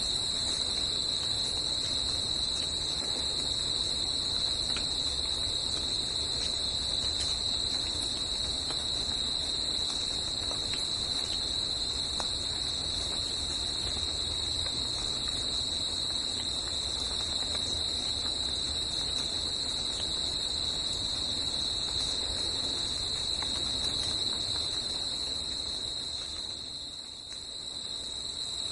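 Forest insect chorus: a steady, high-pitched continuous trill from many insects, which thins briefly a little before the end and then returns.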